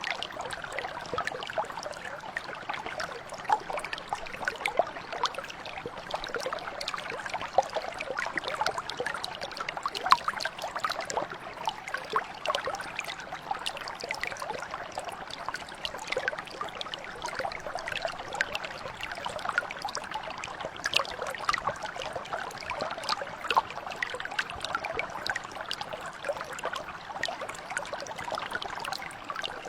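Mountain brook flowing steadily over rocks, a continuous babble with many small splashes and trickles.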